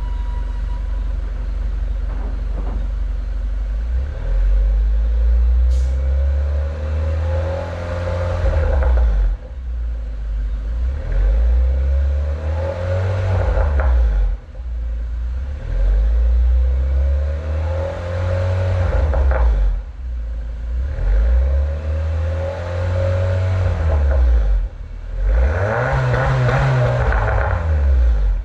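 Honda Fit 1.5-litre four-cylinder engine breathing through an aftermarket full exhaust system (header with metal catalyst, mid-pipe and single-canister muffler). It idles steadily, then is revved up and let fall back about five times, the exhaust note rising and dropping with each rev.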